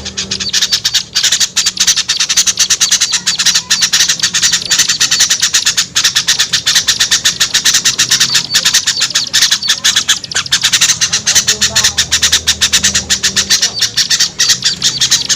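A dense, rapid chatter of many small songbirds calling and scolding over one another without a break, as in a bird-trapping lure recording. A faint low hum runs underneath.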